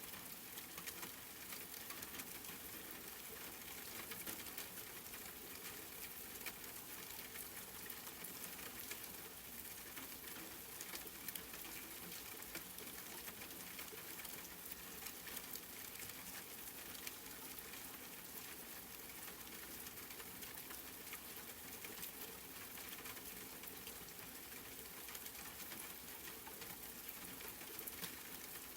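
Steady rain falling: an even hiss dotted with many small, sharp drop ticks, without let-up.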